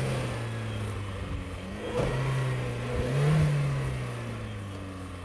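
Car engine running and revving as it drives off-road. The revs rise at the start and again about three seconds in, then slowly fall away.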